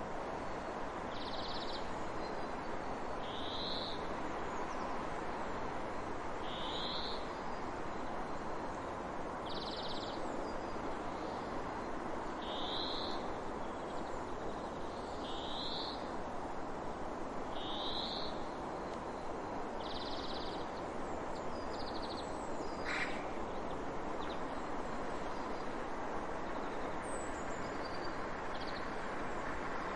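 A bird calling over and over, a short high call every two to three seconds, fading to fainter calls after about twenty seconds, over a steady hiss of background noise.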